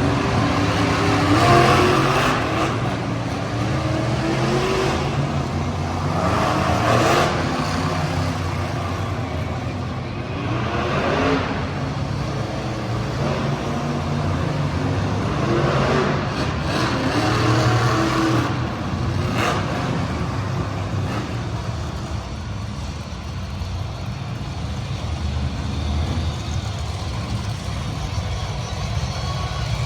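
Monster truck engines running and revving, the pitch rising and falling repeatedly, with the revving busiest in the first two-thirds.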